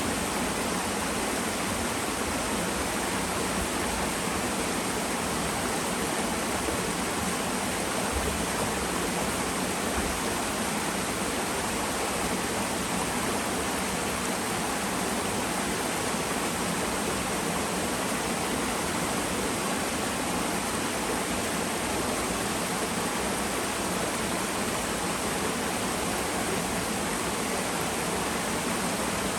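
Small twin waterfall in a mountain stream, water falling and rushing in a steady, even splash.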